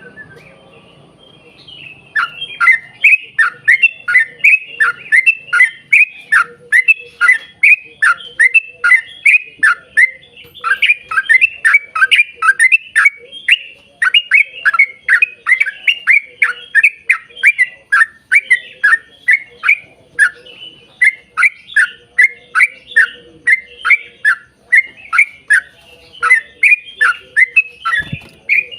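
Sooty-headed bulbul (trucuk) singing a long, fast run of loud falling notes, about three a second, starting about two seconds in.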